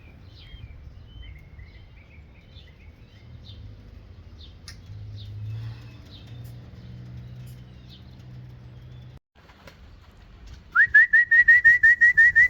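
Faint songbird chirps over a low steady hum. Then, near the end, a loud quick run of about a dozen short rising whistles, about six a second, used to call a returning racing pigeon down into the loft.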